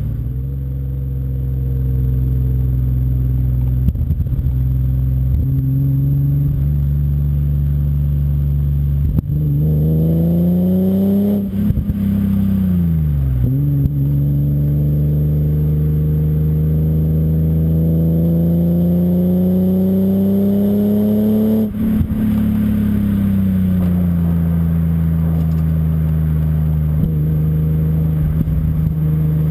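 BMW M5 E34's S38B38 straight-six running through a Scorpion exhaust as the car is driven. The engine note climbs steadily in pitch under acceleration and drops sharply twice as the revs fall, once about midway and again about two-thirds through, before settling to a steady run.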